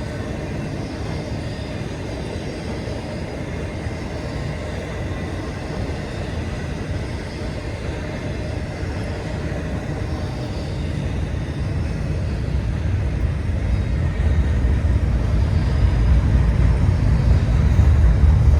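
Intermodal freight train rolling past, a continuous rumble of steel wheels on rail that swells louder in the last several seconds.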